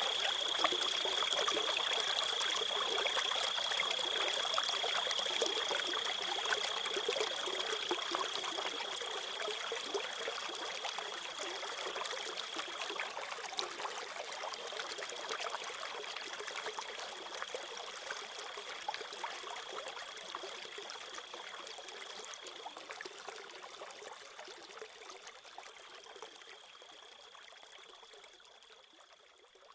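Crickets trilling in one steady high tone over trickling, running stream water. Both fade out slowly and evenly, dying away at the end.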